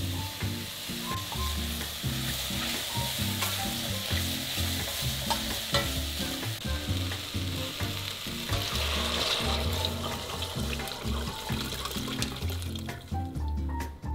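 Diced potatoes, onion, carrot and mushrooms frying in oil in a stainless steel pot, sizzling steadily with scattered clicks of stirring, over soft background music. About two-thirds of the way through, broth is poured in through a sieve with a brief louder hiss, and the sizzle dies away near the end.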